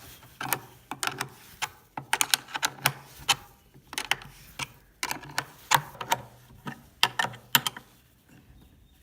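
Irregular sharp clicks and knocks of the wooden lathe's movable holder and clamp being shifted and tightened by hand, several a second, stopping about eight seconds in.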